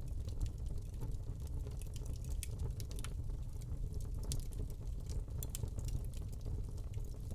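Wood fire burning in a fireplace: a steady low rumble of the flames with scattered irregular crackles and pops from the burning log.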